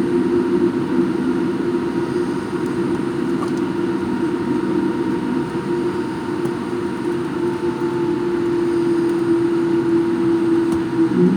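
Jet airliner engines and airflow heard inside the passenger cabin: a steady drone with a few constant hum tones over a rushing noise.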